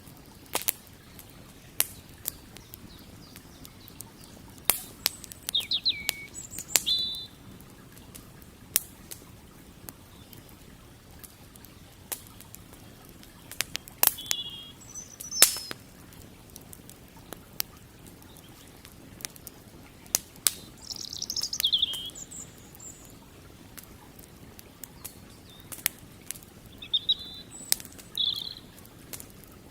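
Wood campfire crackling with irregular sharp pops, while small birds chirp and trill in short bursts every few seconds over a faint, steady low rush of the river.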